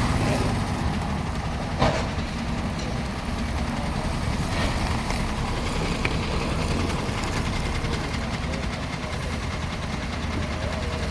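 Heavy diesel engine of a Volvo excavator running steadily, with a single sharp knock about two seconds in.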